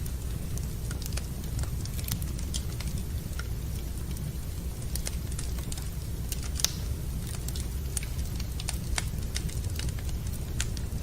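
Wood fire burning in a fireplace, crackling with irregular sharp pops over a low steady rumble, one pop louder than the rest about two-thirds of the way through.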